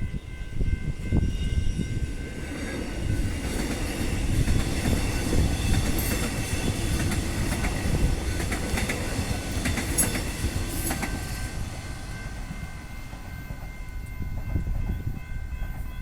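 Train wagons rolling past over a level crossing, the wheels clicking over the rail joints. The train is loudest through the middle and eases off after about twelve seconds. Steady high ringing tones, typical of the crossing's warning alarm, sound at the start and again near the end.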